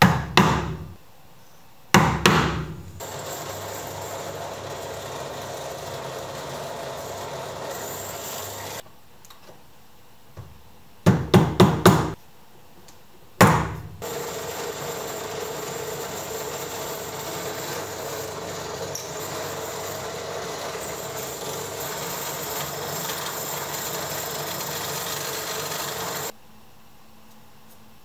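Woodworking: sharp hammer-like knocks on wood, singly and once in a quick run of four, between two long stretches of a steady, even working noise from a tool on the wood.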